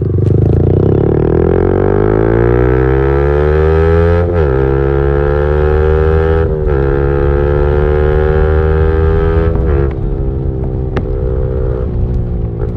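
Motorcycle engine accelerating hard through the gears with a loud exhaust note: the pitch climbs, drops sharply at an upshift about four seconds in and again at about six and a half, then climbs again before a third shift near ten seconds, after which it runs steadier and a little quieter.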